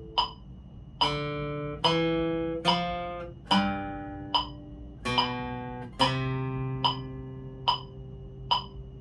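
Acoustic guitar playing a slow single-note melody, one plucked note per beat from about a second in, the last note left ringing. Under it a metronome clicks steadily, a little slower than once a second.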